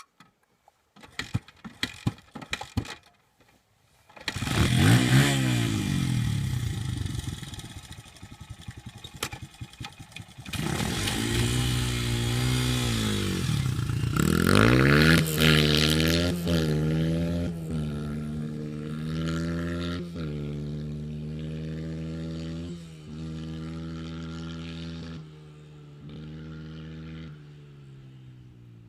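Honda CRF100F dirt bike's small four-stroke single-cylinder engine revving hard as the bike pulls away, then accelerating up through the gears, its pitch climbing and dropping at each shift, fading as it gets farther off. A few knocks come before the engine starts revving.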